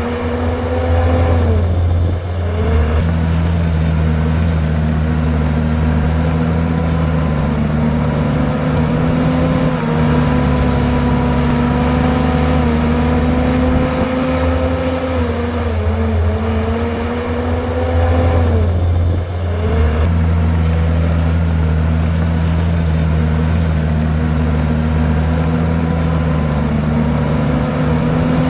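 Komatsu bulldozer's diesel engine running hard and steady while it works, its pitch sagging briefly and recovering twice: once shortly after the start and again about two-thirds of the way through.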